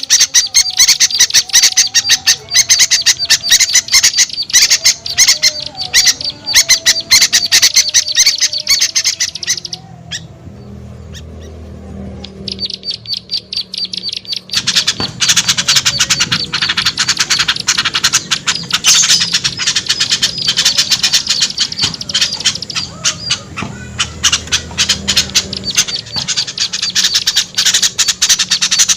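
Bird-lure recording of a noisy crowd of small birds, dense rapid squawking chatter and chirps. The chatter falls away for about four seconds near the middle, then comes back just as thick.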